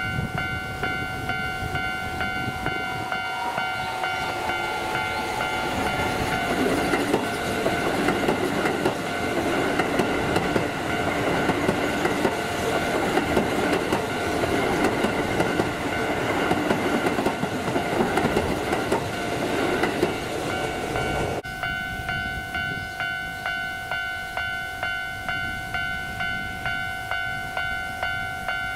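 Keisei 3000-series electric train passing close by, its wheels clattering over the rail joints and growing louder, then cutting off suddenly about three-quarters of the way through. Throughout, a level-crossing warning bell rings steadily with about one fading ding a second.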